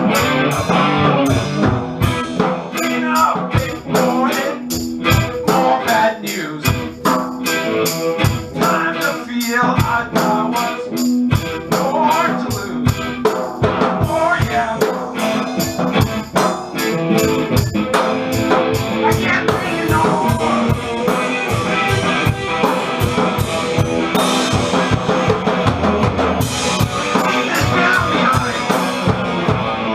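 Rock song played on a drum kit with other instruments, the drums keeping a steady beat.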